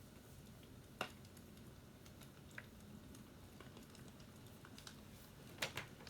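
Fireplace crackling: a few scattered pops over a faint low rumble, with one sharp pop about a second in and a quick pair near the end.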